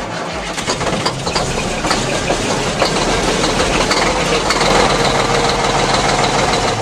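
A car engine sound effect, running steadily with a rattly, ticking texture, stopping abruptly near the end.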